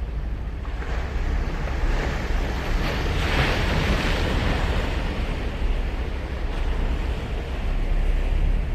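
Sea waves breaking and washing up a sandy beach: one wave's rush swells to a peak about three seconds in and slowly fades. A steady low rumble of wind buffeting the microphone runs underneath.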